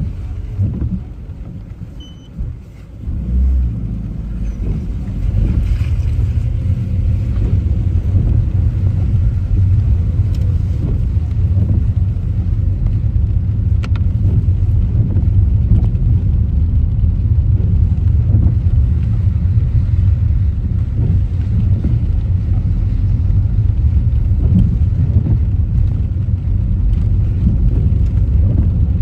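Car driving: a steady low road and engine rumble, dropping quieter for a moment about two to three seconds in, then steady again. A single sharp click comes about halfway through.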